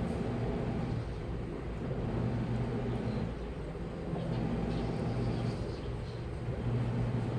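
Washing machine running, its motor hum coming and going about every two seconds over a steady rushing noise from the drum.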